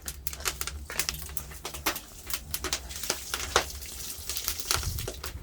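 Firewood burning under a cast-iron cauldron, crackling and popping irregularly, several sharp pops a second over a low steady rumble.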